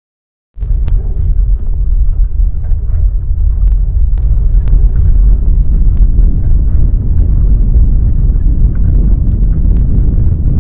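A loud, steady low rumble with scattered sharp clicks and rattles, starting abruptly about half a second in, recorded during the earthquake's shaking.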